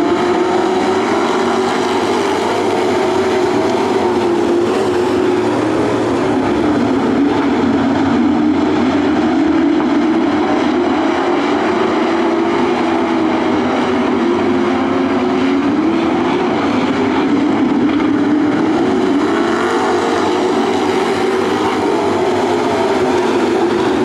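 A pack of dirt trucks racing on a dirt oval, their engines at full throttle. The engine pitch rises and falls again and again as the trucks go down the straights and through the turns.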